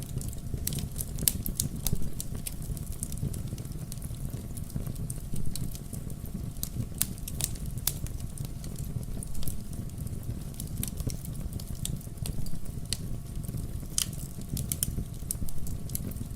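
Wood logs burning in a fireplace: irregular sharp crackles and pops over a steady low rush of the flames.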